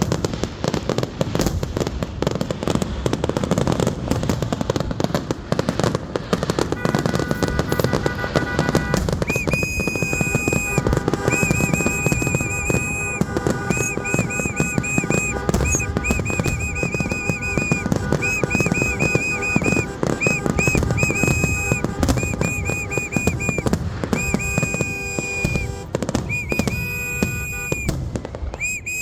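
Fireworks display going off continuously, with dense crackling and bangs. From about a third of the way in, many whistling fireworks join in, sounding as rapid strings of short rising-and-falling whistles.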